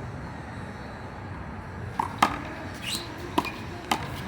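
Rubber handball being served and rallied: after a quiet start, four or five sharp smacks come about two seconds in as the ball is struck by hand and rebounds off the wall and court.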